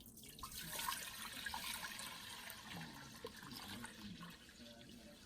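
Water running and pouring into a bowl of rice. It starts suddenly, is strongest over the first couple of seconds, then tapers off.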